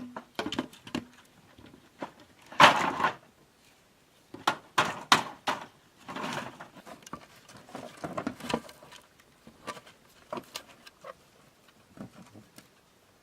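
Bamboo knocking and scraping as it is worked by hand, in irregular bursts. The loudest is a longer scrape about three seconds in, with a run of sharp knocks around five seconds.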